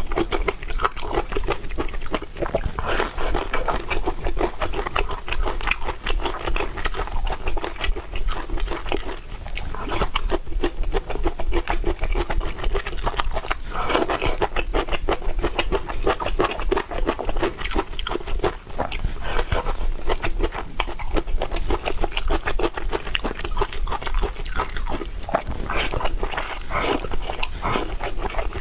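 Close-miked chewing and mouth sounds of a person eating, a dense stream of small clicks and smacks.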